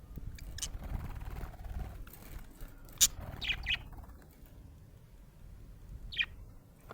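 Budgerigar chirping: a few short, sharp chirps, the loudest about three seconds in and another near the end, over a low rumbling background.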